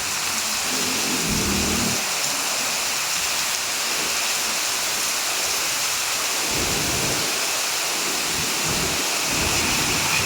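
Heavy rain falling steadily, a dense even hiss, with a few short low rumbles.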